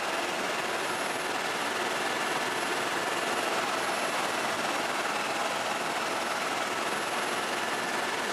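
Helicopter in flight: a steady, even drone of engine and rotor noise with a faint high whine.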